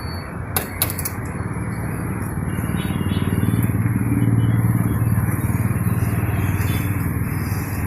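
A motor vehicle's engine going by, its low rumble swelling about midway and then easing off, over steady street noise. A couple of sharp clicks come about a second in.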